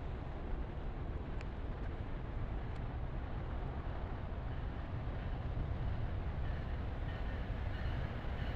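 A train running along the track: a steady rumble of wheels on rails that grows a little louder toward the end.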